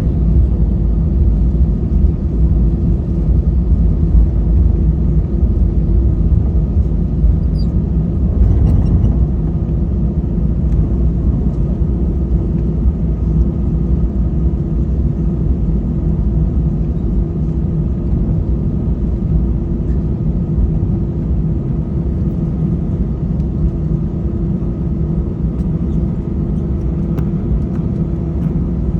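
Airbus A320 cabin noise on the ground: a steady low rumble with a constant engine hum, easing slightly about nine seconds in.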